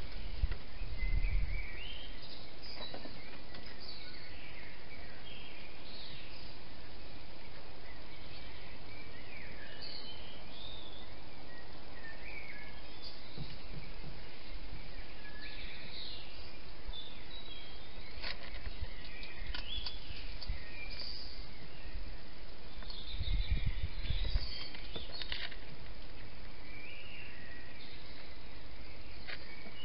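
Scattered bird chirps over a steady hiss of background noise. A short low rumble comes about a second in and another, the loudest sound, about three-quarters of the way through, with a few sharp clicks between.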